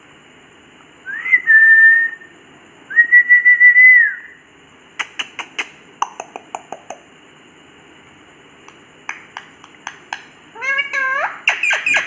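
Pet parrot whistling: two level whistles of about a second each, the first sliding up into its note, followed by runs of sharp clicks and then a burst of squawky chattering calls near the end.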